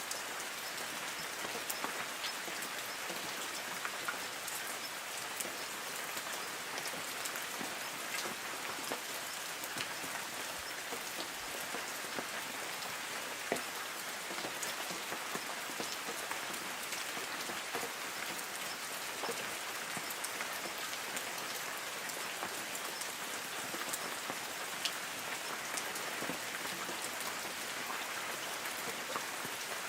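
Light rain falling steadily on forest trees: an even patter with many separate drops ticking on leaves.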